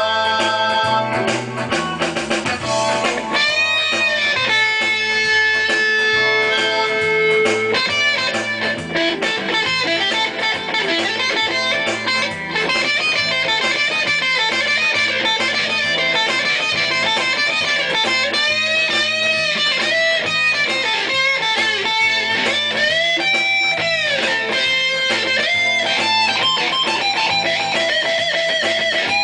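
Guitar music: a melodic lead guitar line with bent and wavering notes, one note held for a few seconds near the start.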